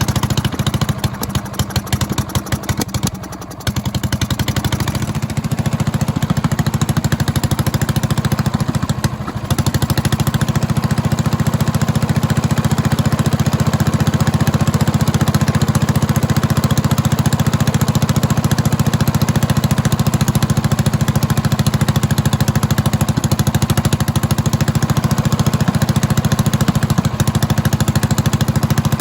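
1932 Fairbanks-Morse Z Style D 'salt block' single-cylinder stationary engine, throttle governed, running with a rapid, even exhaust beat. The beat falters briefly a couple of times in the first ten seconds, then settles into a steady run.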